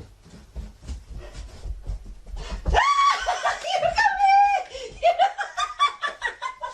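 Faint clicks and low rumble, then about three seconds in a person breaks into high-pitched laughter that goes on in repeated peals.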